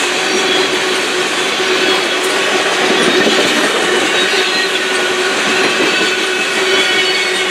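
Loaded railroad tank cars of a long freight train rolling past: loud, steady noise of steel wheels on rail, with a steady ringing tone from the wheels on top.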